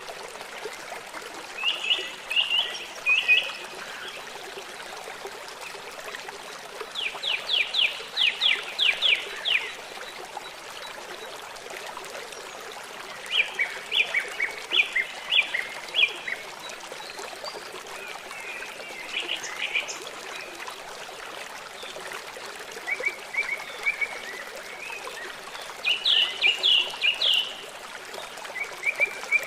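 A songbird calling in short bursts of rapid repeated notes, a phrase every few seconds, over a steady trickling stream.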